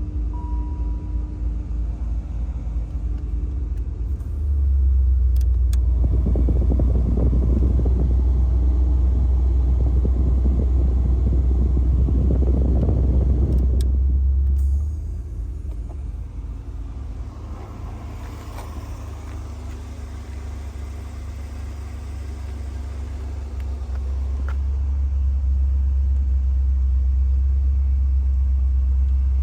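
1986 Pontiac Firebird Trans Am's V8 engine running steadily, getting much louder about four seconds in, easing back near fifteen seconds and rising again near twenty-five seconds.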